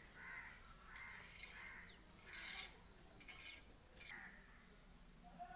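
Birds calling faintly: a series of short rough calls, with a couple of quick high chirps in between.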